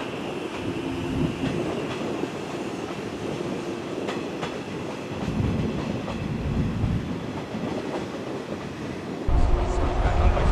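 Shinano Railway 115 series electric train running on the track, a steady rumble with a few wheel clicks over rail joints. A heavier low rumble sets in suddenly near the end.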